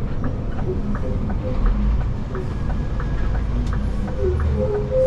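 Inside the cab of a moving Scania vacuum truck: steady low engine and road rumble with light rattling clicks several times a second.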